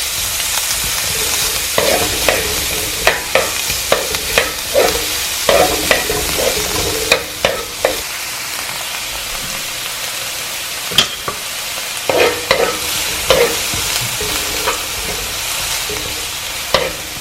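Chopped onions sizzling in hot oil in a frying pan as they are sautéed, with a utensil stirring them and scraping and clicking against the pan. The stirring strokes come thick in the first half, ease off for a few seconds, then pick up again.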